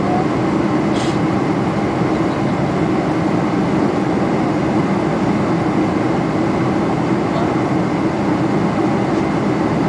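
Steady cabin noise inside a Boeing 747-400 airliner in flight, the even sound of engines and rushing air heard from a window seat, with one faint click about a second in.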